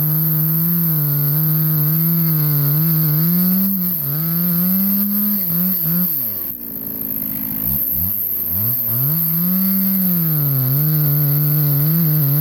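Two-stroke chainsaw running at high revs and cutting through a log, its pitch wavering as the chain bites. About halfway through it drops sharply toward idle, then is revved back up and keeps cutting.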